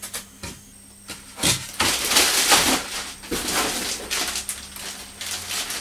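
Handling noise from unpacking foam model parts: a few light knocks, then rustling of plastic packaging from about a second and a half in.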